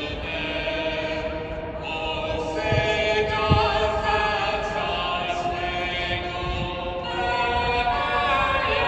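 Choral music: many voices singing long held notes that change every second or two.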